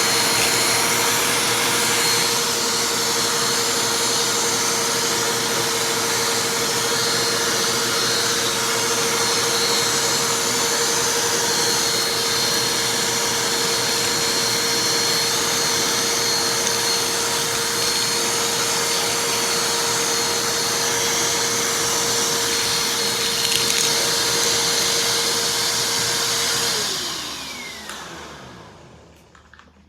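Vacuum cleaner motor running steadily with a constant whine, then switched off about 27 seconds in, its pitch sliding down as the motor winds down.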